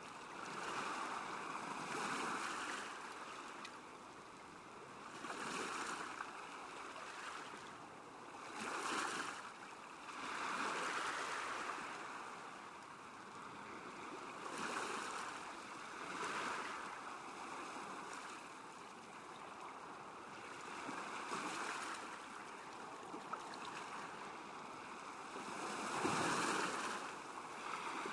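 Small lake waves lapping and splashing at the shore in irregular surges a few seconds apart, the strongest near the end.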